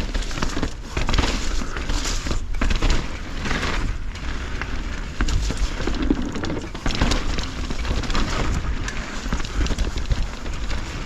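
Mountain bike riding a wet dirt trail, heard from a camera on the bike or rider: tyres rolling over the ground and the bike rattling with many small clicks and knocks over bumps, over a steady low rumble.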